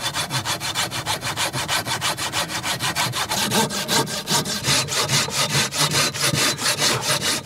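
Hand saw cutting a slot into a piece of wood for a slot-and-tenon joint, in quick, even back-and-forth strokes, about six a second.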